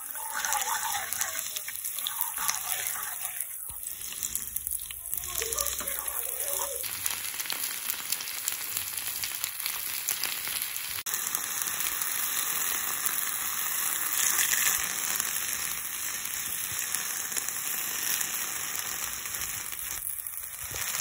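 Sliced shallots and chilies sizzling in hot oil in a frying pan, with a metal spoon stirring and scraping for the first several seconds. Then katuk leaves frying with a steady sizzle as they wilt.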